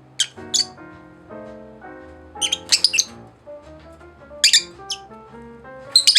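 Pet parakeets giving short, sharp, high-pitched chirps and squawks: a few single calls, a quick cluster of several about two and a half seconds in, and more near the end. Background music with sustained notes runs underneath.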